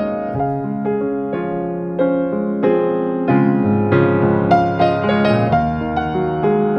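Background piano music: gentle sustained chords and single notes played at a slow, even pace.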